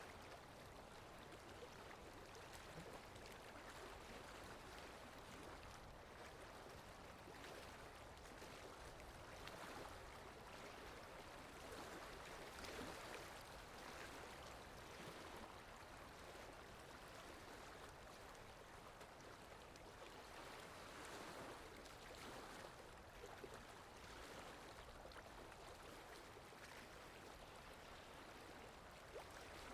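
Faint water lapping, with wind: a soft, steady wash with small splashes and swells that rise and ease every few seconds over a low rumble.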